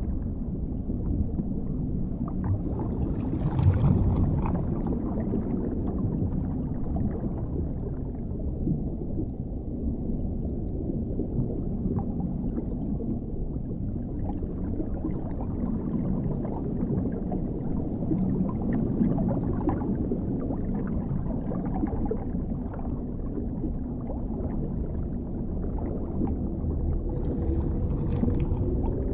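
Underwater ambience: a steady, deep, muffled water rumble with gurgling. It swells briefly about four seconds in and again near the end, where a faint held tone also begins.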